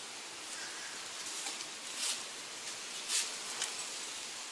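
Steady hiss of background noise with two brief rustles, about two and three seconds in.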